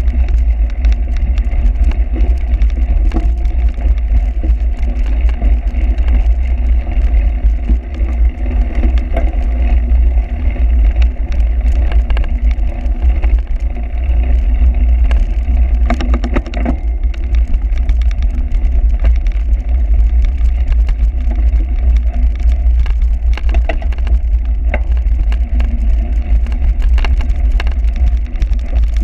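Bicycle ridden over a rough cyclocross course, heard through the camera: heavy, steady wind rumble on the microphone with frequent irregular rattles and clicks.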